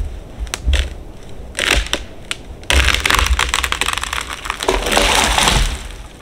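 A few sharp crackles, then about three seconds of dense crunching, with wind rumbling on the microphone.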